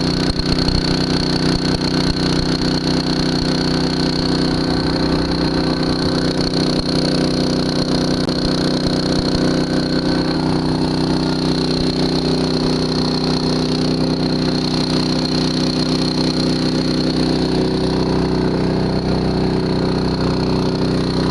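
Small engine-driven water pump running at a steady speed, pumping water out of a sunken boat.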